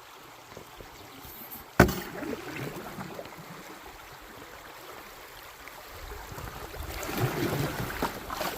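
River water rushing around a fiberglass canoe running rapids, with paddle splashes. About two seconds in there is one sharp knock on the hull, and the water grows louder near the end.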